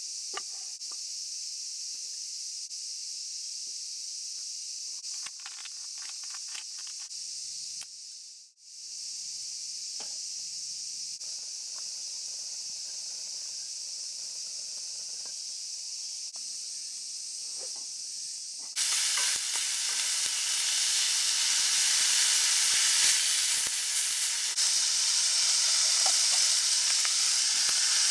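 Mapo eggplant frying in a pan over a campfire. A steady high hiss with scattered light clicks and knocks gives way, about two-thirds of the way in, to a sudden, much louder sizzle as the ingredients hit the hot oil. The sizzle stays loud to the end.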